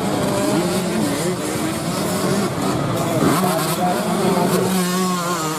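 Several motorcycle engines revving over one another, their pitches rising and falling, with one engine holding a steady note for a moment near the end.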